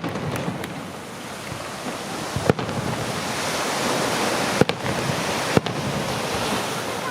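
Fireworks: a dense crackling hiss that swells and holds, broken by sharp bangs at the very start and about two and a half, four and a half and five and a half seconds in.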